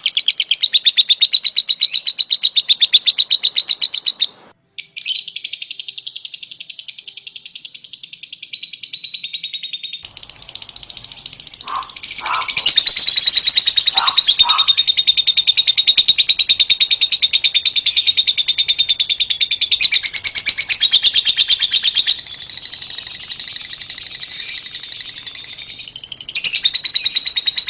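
Fischer's lovebird singing: a loud, rapid, continuous high-pitched chatter and twitter, broken by a brief gap about four seconds in and changing abruptly several times.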